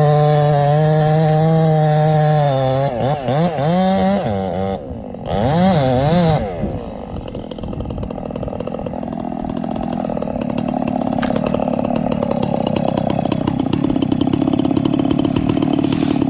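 Two-stroke chainsaw running at a steady high pitch, then revving up and down several times. It then runs on lower and rougher, slowly getting louder toward the end.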